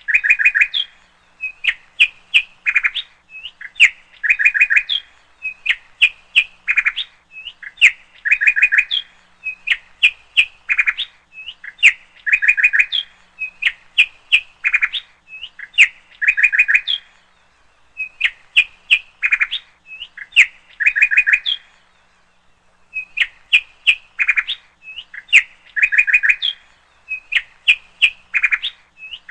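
Bird chirping: a short phrase of quick chirps and a trill repeated about every two seconds, with a couple of brief gaps.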